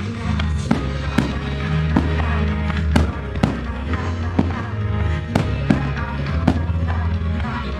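Firework shells bursting in quick, irregular succession, about a dozen sharp bangs with echoing tails, over a sung pop song playing continuously underneath.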